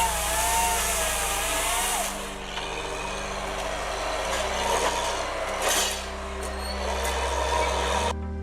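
Heavy wood-cutting machinery working: a steady engine hum with a wavering whine in the first couple of seconds and several short bursts of cutting noise. The sound cuts off abruptly just before the end.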